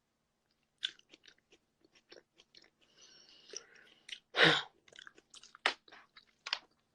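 Close-up chewing of food: a string of short wet mouth clicks and crunches, with one louder crunch about four and a half seconds in.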